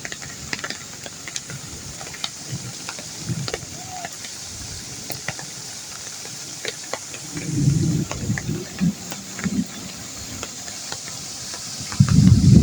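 Steady rain hissing with many scattered small drop taps. A low rumble comes and goes about two thirds of the way through, and a louder low rumble starts near the end.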